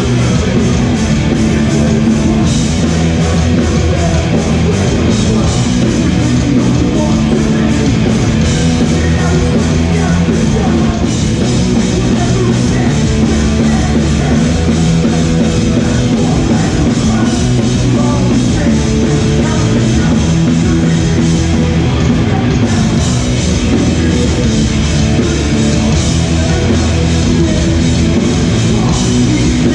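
Hardcore punk band playing live and loud: distorted electric guitars, bass and pounding drums with a steady wash of cymbals, an instrumental stretch with no vocals.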